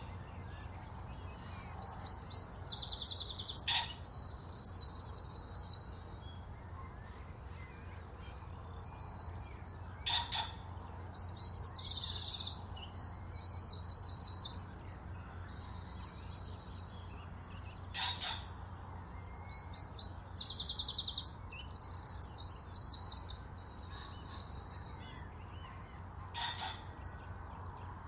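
A songbird singing the same high, rapidly trilled song phrase three times, each lasting about four seconds and coming roughly every eight seconds, with a few short sharp clicks between the phrases.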